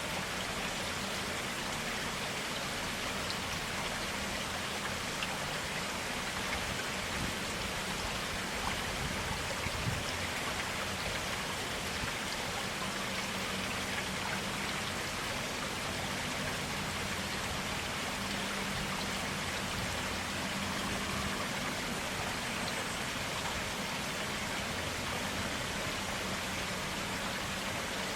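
A clear stream flowing, a steady, even rush of water.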